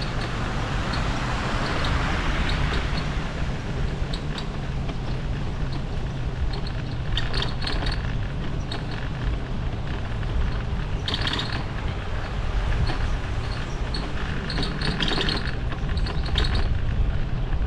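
Wind buffeting the microphone as a bicycle rolls along, a steady low rumble with scattered light clicks and rattles.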